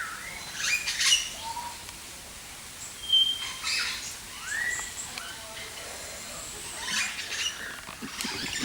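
Birds chirping and calling in scattered short notes, with a brief rising whistle about halfway through.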